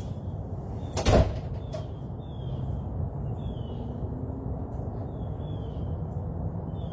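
A single sharp knock about a second in, then a bird calling over and over in short falling chirps, about one every 0.7 seconds, over a steady low rumble.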